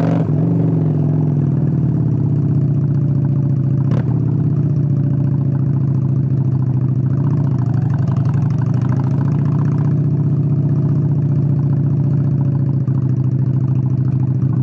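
Honda Steed 600 V-twin motorcycle engine running steadily at low revs, near idle, its pitch easing down slightly at the start. One sharp click sounds about four seconds in.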